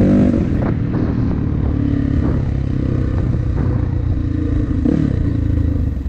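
Dirt bike engine running under throttle on a trail, its pitch rising and falling with the throttle and dropping off about five seconds in, with a few short knocks mixed in.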